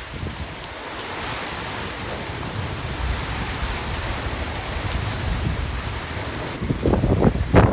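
Storm wind and a steady rushing of rain or surf, with hard gusts buffeting the microphone in the last second or so.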